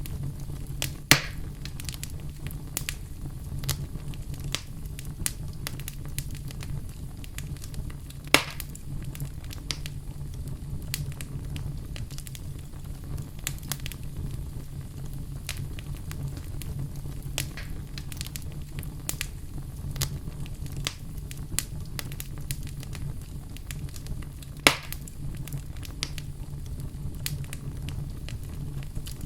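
Wood fire burning in a fireplace: a steady low rumble of flames with scattered crackles, and three louder sharp pops about a second in, around eight seconds in and near twenty-five seconds in.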